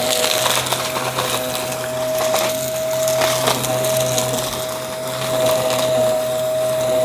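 Aspiron vacuum cleaner running with a steady motor whine, crackling and crunching irregularly as it sucks up crunchy debris.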